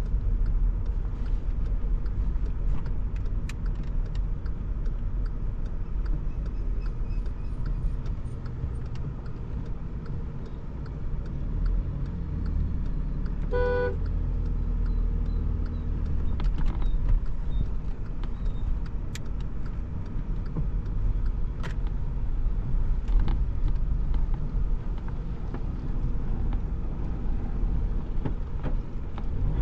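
A Stage 2 tuned VW Polo diesel with a full exhaust is driving, making a steady low engine and road rumble. A short car horn toots once about halfway through.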